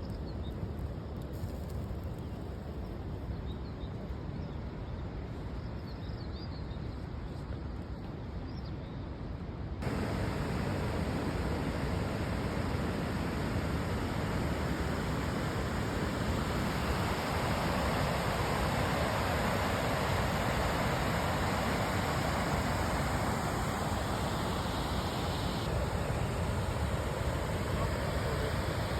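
Outdoor ambience: a steady low rumble with a few faint high chirps, then an abrupt change about ten seconds in to a louder, even rushing noise.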